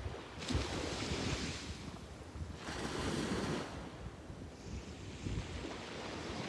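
Sea waves breaking and washing up the beach, three surges of surf hiss a couple of seconds apart, with wind buffeting the microphone underneath.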